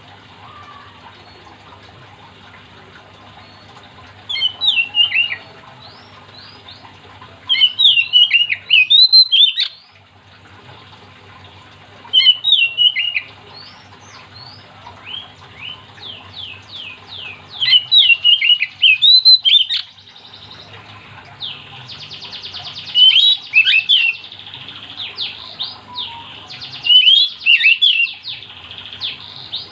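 Oriental magpie-robin singing: loud bursts of fast, sweeping whistled phrases every few seconds. In the second half, a rapid buzzy trill runs beneath the phrases.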